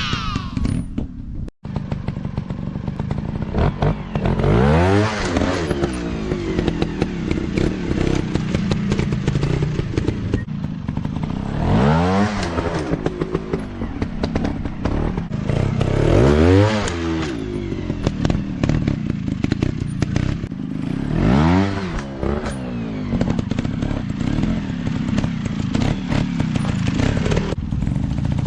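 Off-road dirt bike engines running, with the pitch rising and falling again in repeated revs about every four to five seconds over a steady engine drone, along with scattered clatter.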